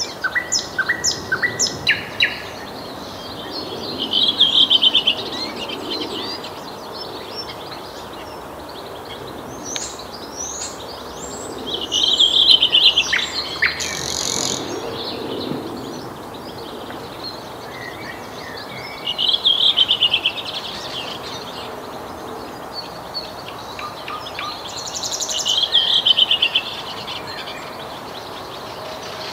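Nightingale singing: separate phrases of rapid trills and quickly repeated notes, one about every six seconds with pauses between, over a steady low background noise.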